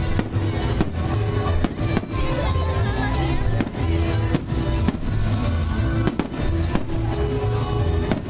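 Fireworks going off, with sharp bangs scattered every half second to second or so, over loud music with a heavy bass beat.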